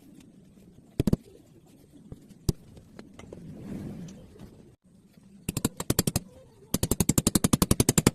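Sharp knocks from work on a wooden chair's legs: a few single knocks, then a fast run of knocks, about a dozen a second, beginning about two-thirds of the way in.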